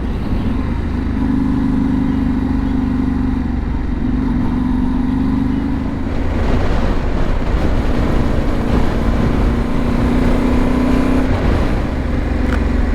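Yamaha Ténéré 700's parallel-twin engine running steadily on the move, with wind rush growing louder about halfway through.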